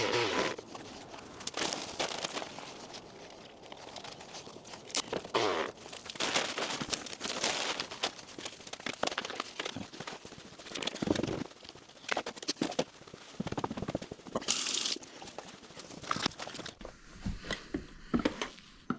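Rummaging and sorting by hand through a bin of small plumbing fittings and debris: irregular clinks, knocks and crinkling, with a few louder clatters.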